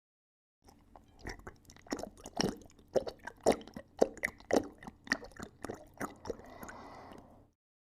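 Irregular crunching, about two crunches a second, stopping suddenly near the end.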